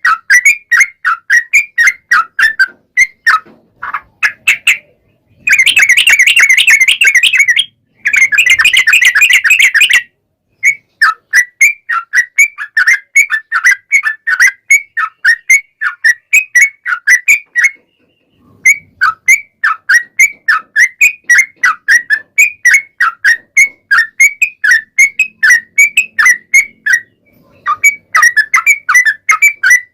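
Yellow-vented bulbul singing: a fast series of short whistled notes, about three or four a second. Two dense, rapid chattering trills run back to back a few seconds in.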